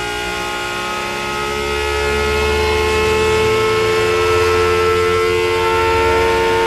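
Sustained electronic synthesizer drone: many held tones stacked together, swelling about two seconds in, with one strong middle tone rising slightly in pitch.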